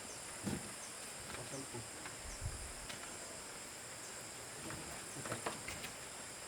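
Steady high-pitched insect chorus, with a few scattered soft knocks and clicks.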